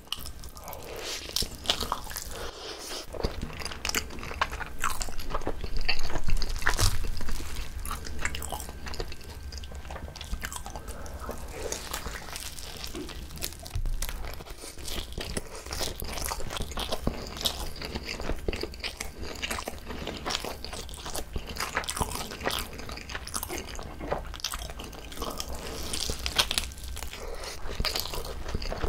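Close-miked biting and chewing of a whole seaweed-wrapped gimbap rice roll: a steady run of small crunches, clicks and wet mouth sounds, loudest about six to seven seconds in.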